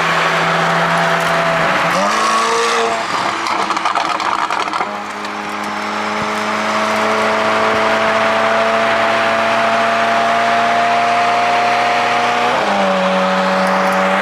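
Car engine and road noise from cars driving side by side: a steady engine note whose pitch climbs slowly with speed, shifting about two seconds in and again near the end, over a constant haze of tyre and wind noise.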